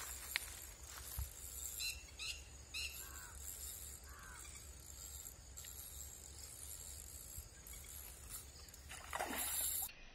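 Faint outdoor ambience with a few short, repeated bird chirps about two to three seconds in, and a brief rush of noise near the end.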